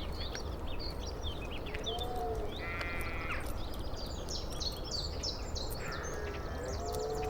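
Outdoor bird chorus: small birds chirping and twittering throughout, with a harsh, cawing call twice and a few low, hooting or cooing notes, over a steady low rumble.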